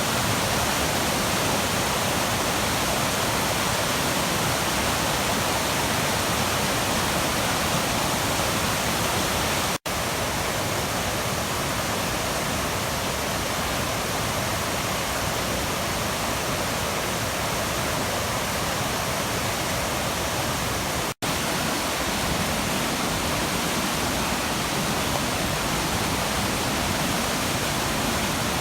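Waterfall on the Puntledge River at Nymph Falls: a steady, full rush of falling water, broken twice by a split-second gap of silence.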